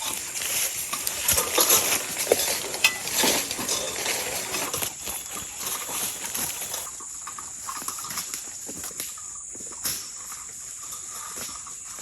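Footsteps crunching through dry leaf litter and brushing through undergrowth on the forest floor: irregular crackles that thin out about seven seconds in, over a steady high insect drone.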